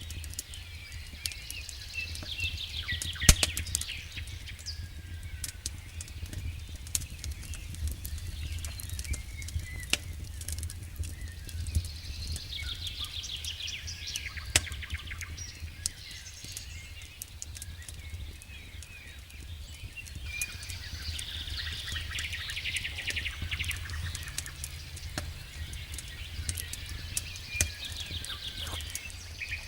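Wood fire burning in a fireplace: irregular sharp crackles and pops over a steady low rumble, the loudest pop about three seconds in, with high-pitched sizzling that swells and fades every several seconds.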